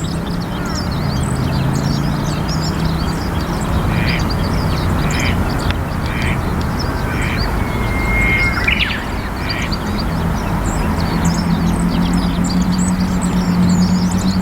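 Eurasian coot calling: a series of about seven short, quack-like calls, roughly one a second, through the middle of the stretch. Small birds chirp faintly throughout, over a steady low hum.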